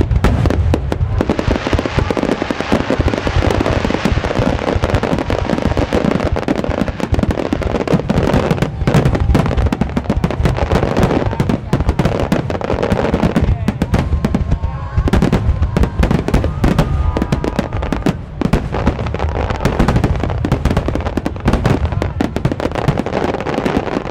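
Wide starmine fireworks barrage: a dense, continuous run of shell launches and bursts booming and crackling in quick succession, with a few brief lulls.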